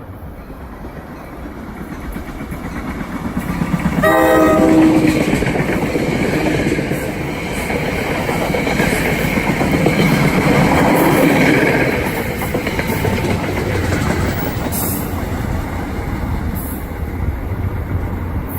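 NJ Transit commuter train sounding one short horn blast about four seconds in, then rumbling and clattering loudly past on the rails. The rumble builds at the start and is loudest around two-thirds of the way through.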